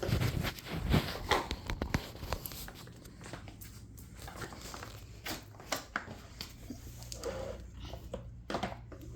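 Irregular clicks, knocks and rustles from handling the plastic parts of a partly disassembled upright vacuum cleaner. They are loudest and busiest in the first couple of seconds.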